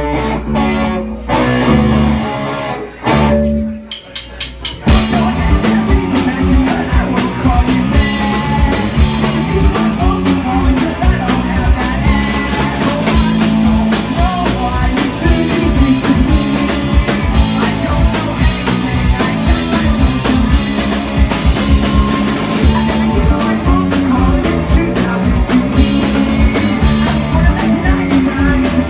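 Live rock band starting a song: a guitar opens with only scattered beats, then about five seconds in a quick drum fill brings in the full band, drums and guitars playing on steadily.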